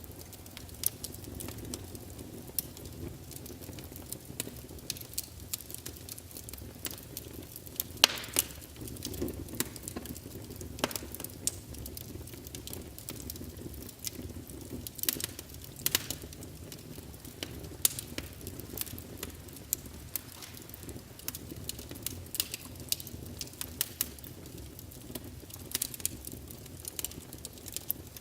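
Wood fire burning in a fireplace: the logs crackle and pop at irregular moments, over a steady low rush of the flames. The sharpest pop comes about eight seconds in.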